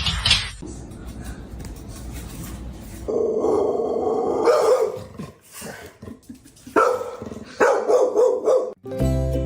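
A dog barking and growling in a few rough bursts: a long one about three seconds in and shorter ones near the end.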